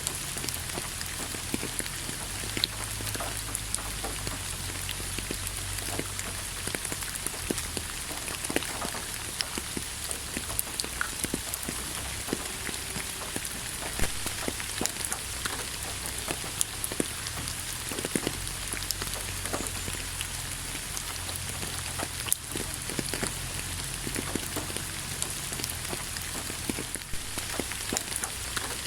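Steady rain falling, with a constant hiss and many close drops pattering and ticking on a surface.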